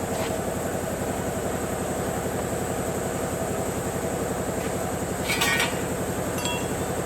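An engine running steadily with an even, fast low throb, and a brief metallic clatter of tools about five and a half seconds in.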